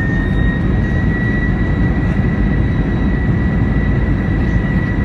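Airbus A320 jet engines heard from inside the passenger cabin: a loud, steady rumble with a thin high whine that rises slightly in pitch over the first second and then holds.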